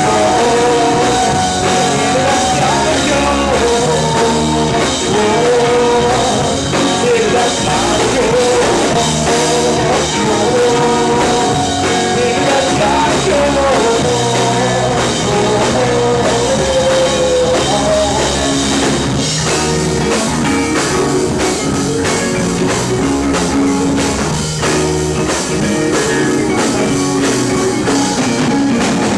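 A rock band playing live, with singing over guitar and drum kit. The sung melody fades out about two-thirds of the way through, and the band plays on with the drums more to the fore.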